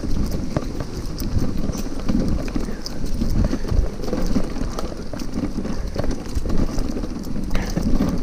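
Hybrid bicycle ridden over a rough dirt trail: steady rumble with many irregular knocks and rattles as the bike jolts along. It is picked up from inside a trunk bag on the bike.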